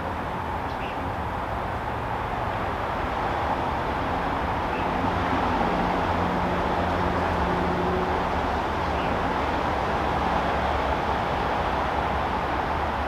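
Steady outdoor background rumble of distant vehicle traffic, swelling slightly in the middle as if a vehicle passes, with a few faint short chirps above it.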